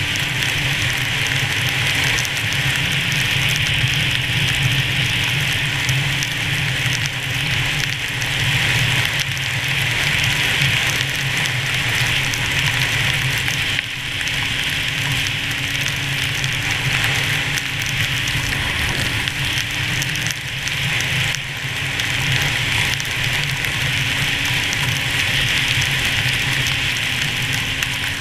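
1998 Arctic Cat SRX 700 snowmobile running at a steady pace, its engine holding one even pitch under a loud, steady rush of wind and snow noise. The engine note wavers briefly about two-thirds of the way through.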